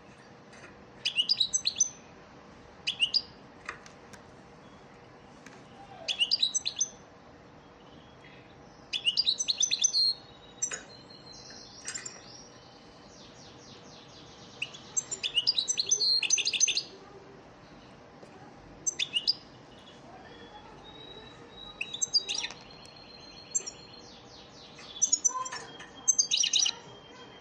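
European goldfinch singing: short phrases of quick twittering notes and buzzy trills, repeated about nine times with brief pauses between them.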